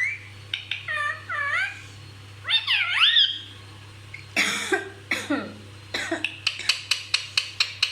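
Pet parrot vocalising: a few wavering whistled calls, then two harsh squawks around the middle and a fast run of short sharp clicks or chirps, about five a second, near the end.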